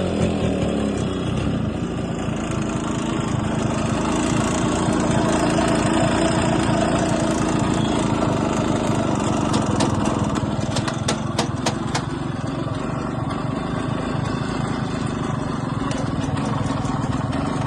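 Yamaha RX135's two-stroke single-cylinder engine, fitted with a bore kit, running steadily at idle and swelling slightly in revs a few seconds in. A few sharp ticks sound over it about two-thirds of the way through.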